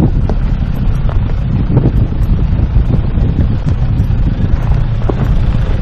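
Off-road 4x4 driving over a rough track: a steady low rumble with scattered knocks and rattles, and wind buffeting the microphone.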